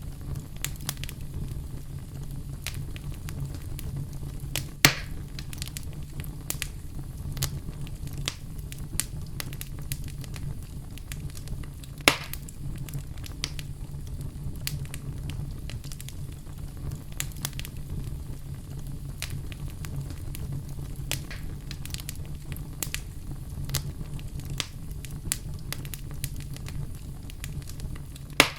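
Campfire crackling: frequent small pops and clicks over a steady low rumble, with a few louder snaps, about five seconds in, about twelve seconds in and at the very end.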